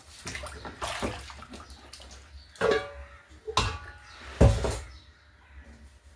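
Water splashing and sloshing in a basin, with three louder splashes about a second apart near the middle.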